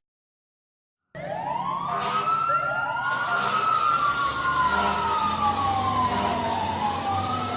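Siren wailing, several overlapping wails that each rise quickly and fall slowly, starting about a second in after dead silence.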